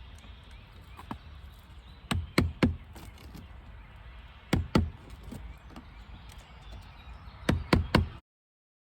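Sharp knocks in short groups of two or three, from a screwdriver used in place of a chisel to chip old, crumbling mortar out of the joints of a fieldstone foundation wall. The sound cuts off abruptly near the end.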